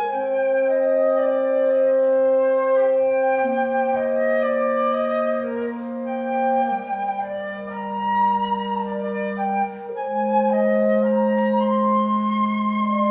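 Woodwind trio of flute and two clarinets playing: a clarinet holds long low notes that change pitch every few seconds, while shorter notes move above it.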